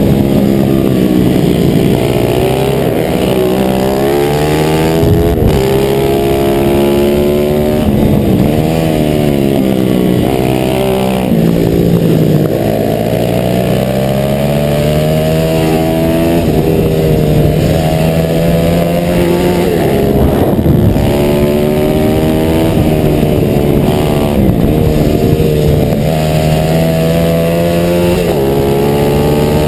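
140cc four-stroke single-cylinder pit bike engine at racing pace: the revs climb through the gears, then drop sharply off the throttle every few seconds. On one longer stretch partway through, the revs are held fairly steady before dropping again.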